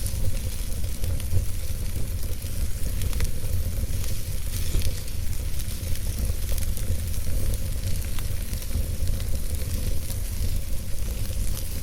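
Wood fire burning in a fireplace: a steady low rumble of the flames with many small, scattered crackles and pops from the logs.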